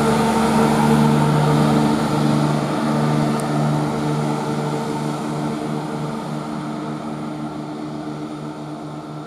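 Class 170 Turbostar diesel multiple unit pulling away under power, its diesel engines giving a steady droning hum that slowly fades as the train draws off.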